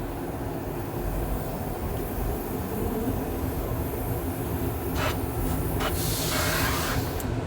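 Steady low rumble of workshop machinery, with short hisses of compressed air about five and six seconds in and a longer hiss near the end.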